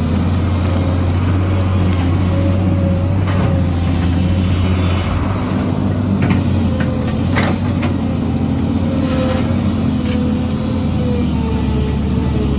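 Heavy diesel engine of an excavator running steadily, with a faint whine that wavers in pitch and a few sharp clanks in the middle, the loudest about seven seconds in.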